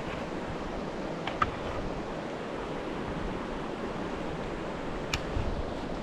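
Steady rush of a flooded creek's flowing water, with a few light clicks about a second in and again near the end.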